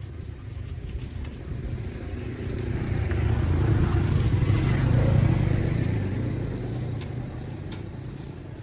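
A motor vehicle driving past: a low rumble that grows louder to a peak about halfway through, then fades away.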